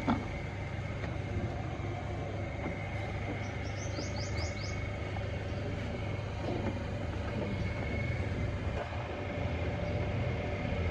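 Steady low mechanical hum with a faint steady whine above it. About four seconds in, a bird gives a quick run of about five rising chirps.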